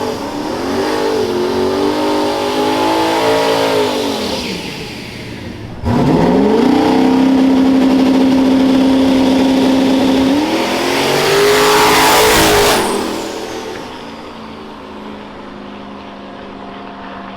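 High-powered drag-racing engines revving and accelerating hard. One engine note falls away over the first few seconds. About six seconds in, another engine starts loudly, holds one high steady pitch for about three seconds, climbs again and fades by about thirteen seconds, leaving a quieter steady engine sound.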